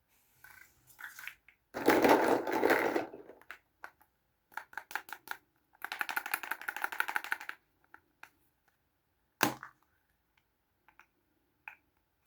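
Small plastic toys and their packaging being handled close up: a loud crinkling rustle, then a fast run of rattling clicks, then a single sharp click near the end.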